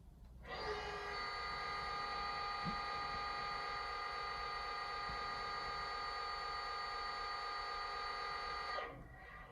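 Sound-fitted OO gauge Class 59 model locomotive's decoder sounding a diesel horn, one steady multi-tone blast held for about eight seconds through the model's small speaker, starting about half a second in and cutting off sharply near the end.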